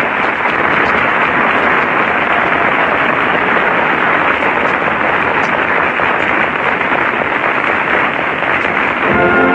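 Studio audience applauding, steady and even, with music coming back in just before the end.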